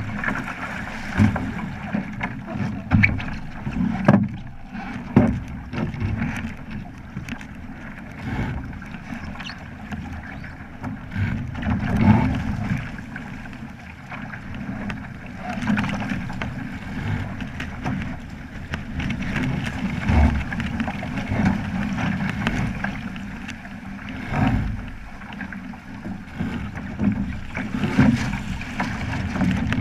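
Water splashing and slapping against a Flying Fifteen sailing boat's hull as it moves through small waves, in an uneven run of thumps over a steady rushing wash.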